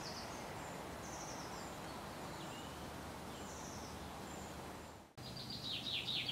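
Quiet woodland ambience: a faint steady hiss with small birds chirping high now and then. After a brief dropout about five seconds in, a bird sings a quick run of downward-sliding notes.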